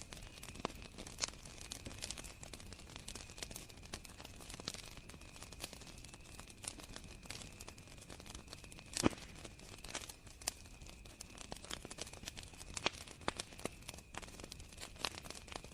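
Campfire crackling with irregular pops, the loudest about nine seconds in, over a steady high trill of crickets.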